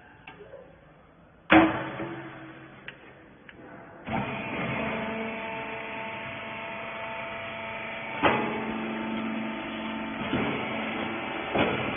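A loud metallic clang, then about four seconds in a baling machine starts up and runs with a steady hum, with a few clanks along the way.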